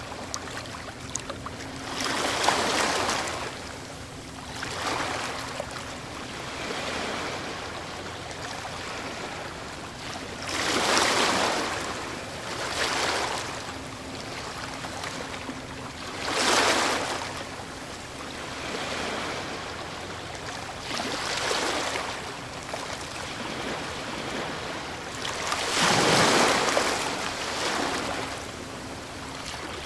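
Ocean waves breaking on a shore: a surge of surf every few seconds over a steady wash. The loudest breakers come about a third of the way in, just past halfway and near the end.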